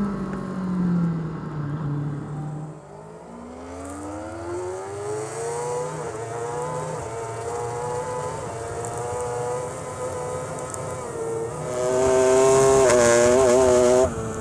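Superbike engine heard from an onboard camera. The engine note drops as the throttle closes, then climbs as the bike accelerates and holds fairly steady. Near the end a louder, wavering engine note runs for about two seconds and cuts off suddenly.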